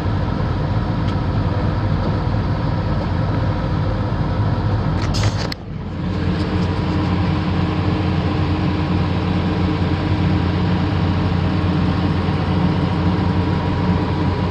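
Komatsu PC450LC-8 excavator's six-cylinder diesel engine idling steadily, with a brief dip about five and a half seconds in.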